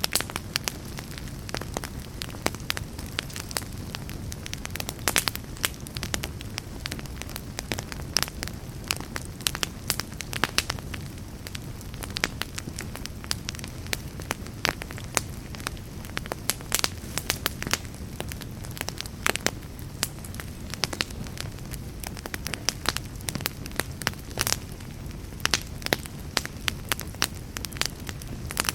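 Wood fire burning in a fireplace, crackling steadily with many irregular sharp pops over a low, even rush of flame.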